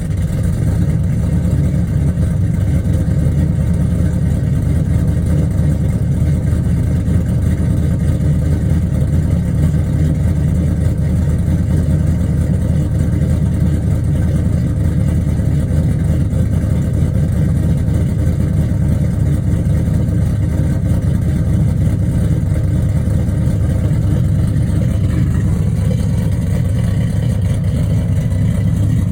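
V8 engine with a Brian Tooley Racing NSR camshaft, idling steadily with a deep, even exhaust note shortly after a cold start.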